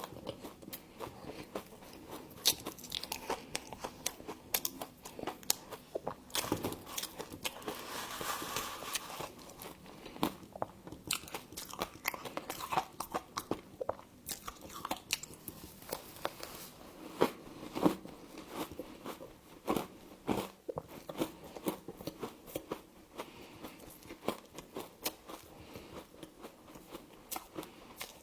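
Close-up biting and chewing of crunchy frost: irregular sharp crunches throughout, with a denser run of crunching a few seconds in.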